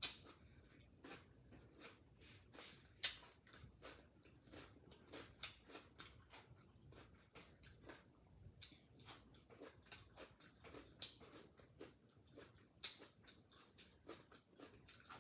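A person chewing steamed chicken with her mouth close to the microphone: soft, irregular wet mouth clicks and smacks, a few of them louder.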